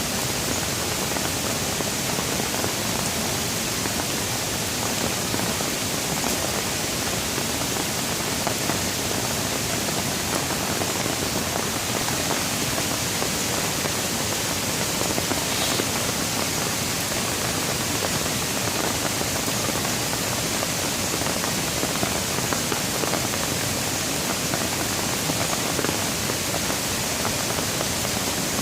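Steady rain: an even, unbroken hiss with no let-up or thunder.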